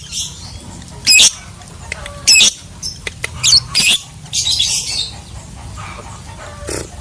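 Lovebird calling: loud, shrill, rapidly warbling chirps, short calls about once a second, with softer scratchy chatter in between.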